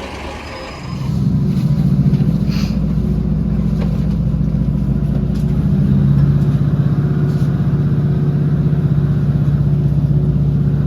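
Class 156 diesel multiple unit's underfloor six-cylinder Cummins diesel engine throttling up about a second in, a loud, steady, low engine note. Around six seconds in the note drops a little lower and gets stronger as it pulls under load.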